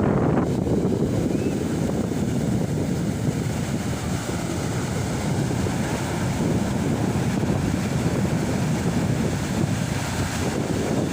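Big ocean surf breaking and washing on the beach, a steady roar, with wind rumbling on the microphone.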